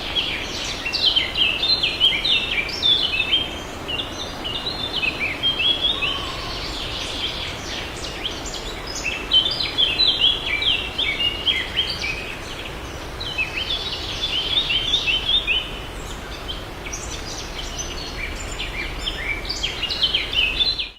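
Birds singing: bouts of quick, short chirping notes that come again every few seconds, over a steady background hiss.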